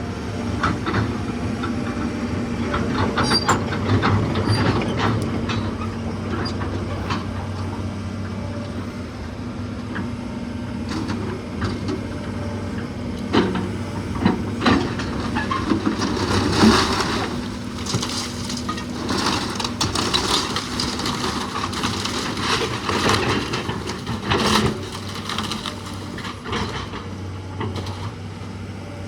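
A machine's engine runs steadily while wooden framing cracks, crunches and knocks, with several louder crashes partway through: timber being broken up in a house demolition.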